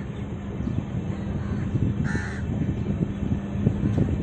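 Passenger train coach wheels rumbling and knocking over the rails as the train pulls away slowly, the knocks growing busier. A bird calls once about two seconds in.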